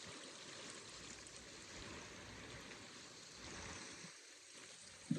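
Seawater washing and trickling among shore rocks, a faint steady rush.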